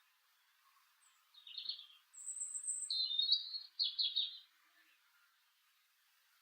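A small songbird singing: a short high phrase about a second and a half in, then a longer, trilled phrase with a thin, very high note over it, ending before the five-second mark.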